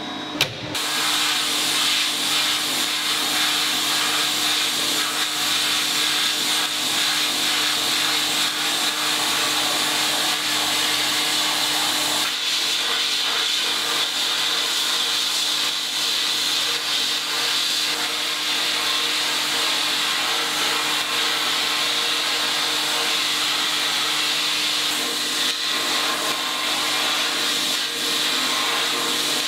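A small motor-driven machine switches on with a click about half a second in and runs steadily with a hissy whir.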